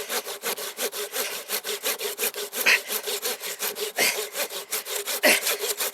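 Hand saw cutting through a rotting pine branch with fast, even back-and-forth strokes, about five a second. The going is hard because the wood is full of resin (fatwood).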